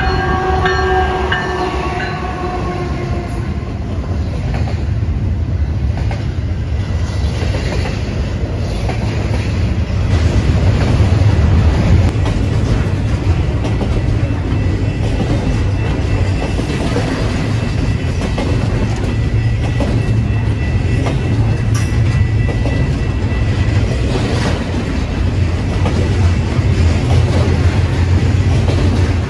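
Canadian Pacific double-stack intermodal freight train passing close by. The lead locomotive's horn chord fades out in the first few seconds, then the loaded container well cars roll past with a steady low rumble and wheel clickety-clack over the rail joints. A faint steady high tone rings in the middle.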